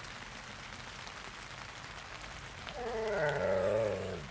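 Steady rain falling. About three seconds in, a drawn-out wordless vocal sound with a wavering pitch lasts about a second and a half, louder than the rain.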